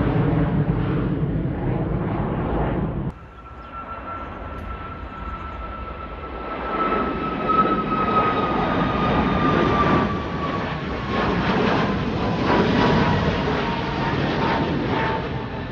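Jet airliner engines at take-off power during a departure. The loud engine noise drops off abruptly about three seconds in, then builds again with a high whine that slowly falls in pitch.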